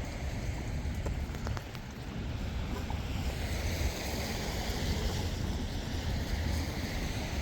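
Wind rumbling on the microphone over a steady hiss of wet outdoor street noise on a rainy day, with a few faint clicks about one to two seconds in; the hiss grows brighter from about three seconds in.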